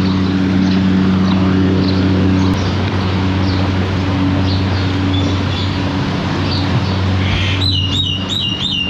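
A bird chirping: faint scattered calls, then a quick run of about five repeated chirps near the end, over a steady low hum and outdoor background noise.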